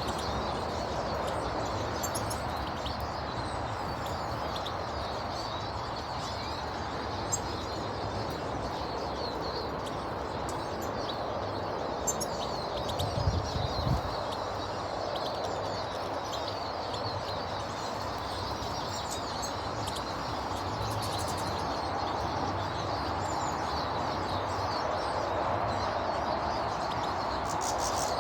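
Garden birds chirping and calling over steady background noise, with a brief low thump about halfway through.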